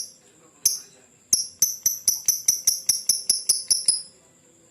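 Lovebird 'ngekek' chatter: a few sharp, high chirps a little over half a second apart, then a fast run of about five chirps a second that stops suddenly near the end.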